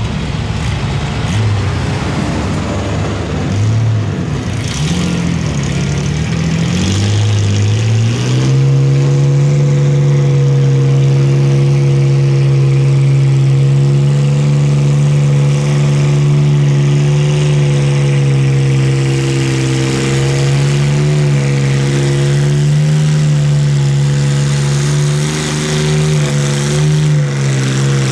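Pulling truck or tractor engine at high revs under load. Its note wavers and climbs for the first eight seconds or so, then holds steady at a high pitch.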